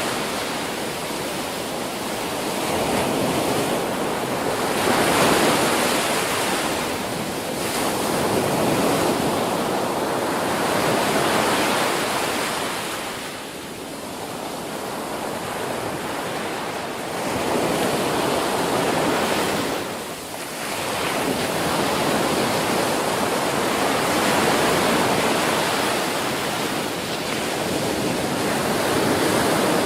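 Ocean waves breaking and washing up a beach: a continuous rushing surf that swells and eases every few seconds, with brief lulls about thirteen and twenty seconds in.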